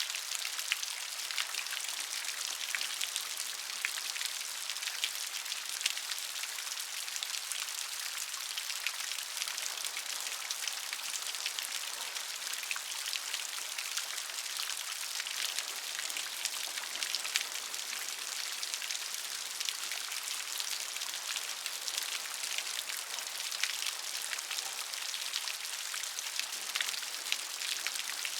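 Steady gentle rain: an even hiss of falling rain with many small, close drop patters.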